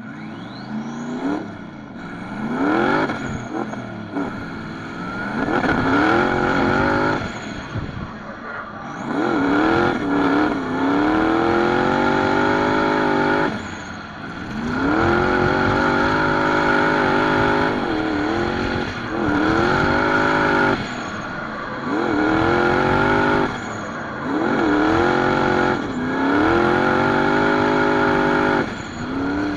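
Drift car's engine revved hard again and again, each time rising quickly and then held at steady high revs for a few seconds before a brief lift, with tyre squeal underneath.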